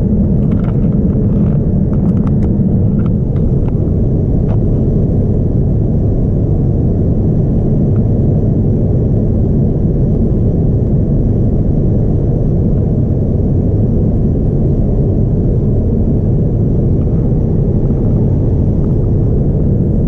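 Boeing 787-9 Dreamliner cabin noise in flight: a steady low rumble, with a few faint clicks in the first few seconds.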